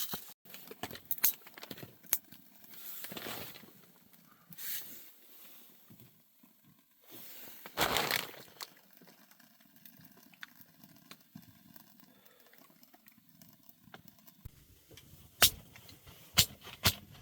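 A small fire being rekindled in a tent's stove: scattered crackles and clicks, a few soft rushing swells, and a run of louder knocks near the end.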